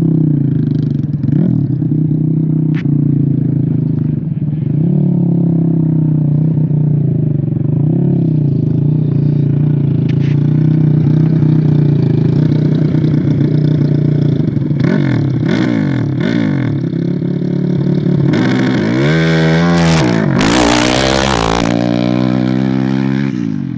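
ATV engine running hard, its revs rising and falling over and over. Near the end comes a few seconds of loud rushing noise with sweeping rises and falls in pitch.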